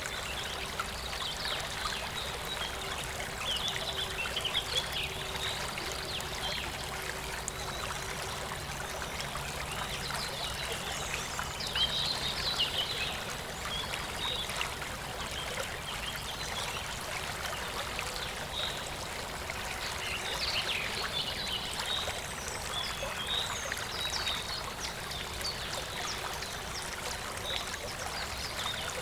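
Rural stream flowing steadily over a shallow bed, a continuous babble and trickle of water with irregular brighter splashy flickers here and there.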